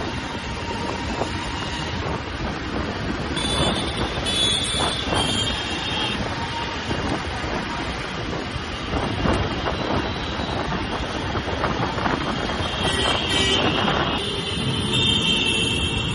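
Royal Enfield Classic 350's single-cylinder engine and exhaust running steadily on the move, with wind noise on the microphone. Brief high-pitched tones sound twice, a few seconds in and near the end.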